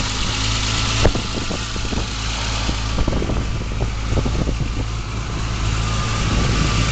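BMW M635CSi's straight-six engine idling steadily, with a sharp click about a second in and a few lighter knocks.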